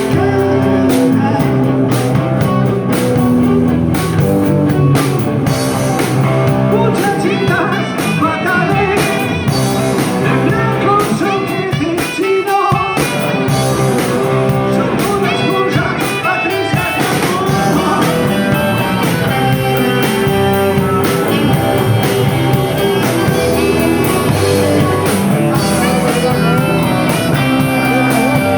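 Live rock band playing with electric guitar and drums and a singing voice, heard close from the stage, with a short dip in the playing about twelve seconds in.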